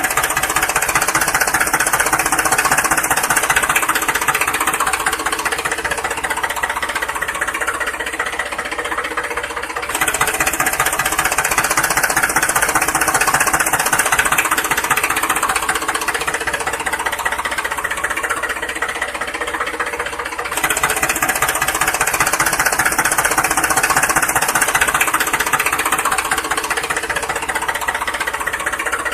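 A small motor running steadily with a fast, even knocking. The same stretch of sound starts over about every ten and a half seconds, as a loop.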